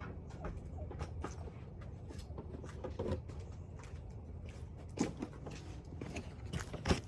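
Kayak fishing gear being handled and fitted: scattered light clicks and knocks of hard parts, the loudest about five seconds in and near the end, over a steady low background rumble.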